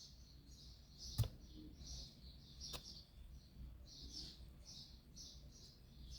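Faint chirping of small birds, short high calls repeating irregularly throughout. A sharp click about a second in and a fainter one near three seconds.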